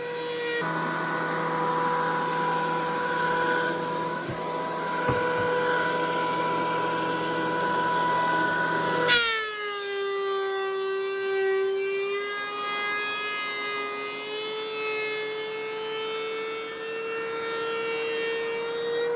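Planer motor running with a steady whine while it cuts an ash board. About halfway through there is a sharp knock, and the pitch drops as the motor bogs under the cut, then slowly climbs back up to speed.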